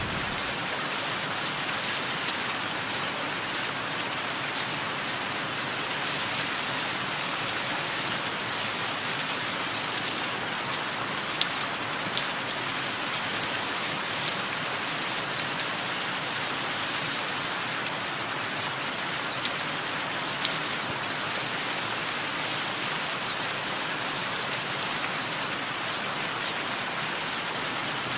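Steady rain hiss with a small bird's short, high, falling chirps, often in twos or threes, every second or two.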